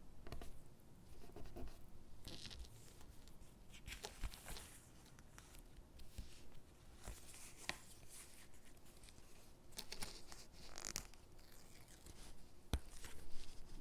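Stickers being peeled off their backing sheet in several short, raspy rips, with light paper handling and taps as they are pressed onto paper gingerbread cutouts.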